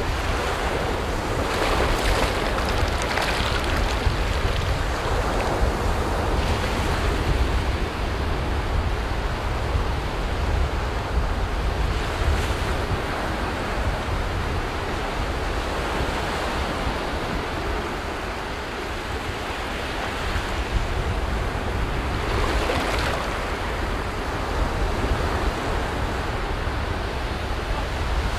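Ocean waves breaking on a beach: a continuous wash of surf that swells as a wave breaks about every ten seconds, with a low rumble of wind on the microphone underneath.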